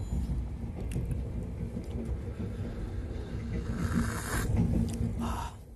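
Steady low rumble of a passenger train running, heard from inside the coach. About four seconds in, a brief louder stretch of higher noise rides over it.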